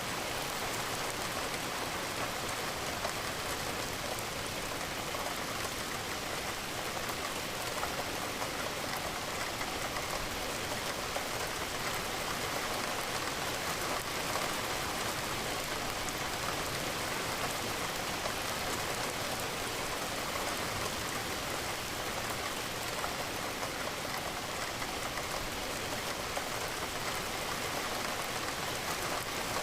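Steady rain falling, an even hiss of drops pattering on a surface, with no change in strength.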